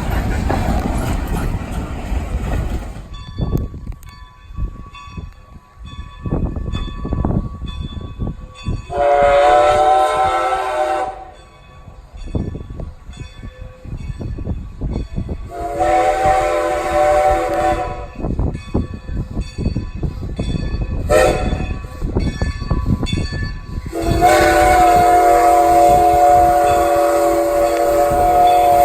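A locomotive sounding the grade-crossing signal: two long chime blasts, a short one, then a long one that runs to the end. Before the blasts the train is heard running, which dies down after about three seconds.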